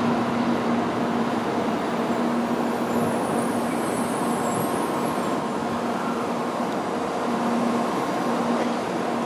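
N700A Shinkansen train pulling slowly into the platform, a steady running hum with a low steady tone through it. A faint high squeal comes in about three seconds in and fades out two seconds later.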